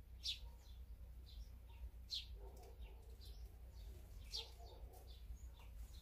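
Small wild birds chirping: short, sharp downward-sliding calls, the loudest about every two seconds, with fainter chirps in between.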